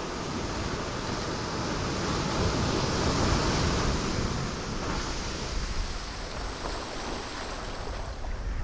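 Ocean waves breaking on rocks: a wash of surf that swells to a peak about three seconds in, then eases back into a steady rushing.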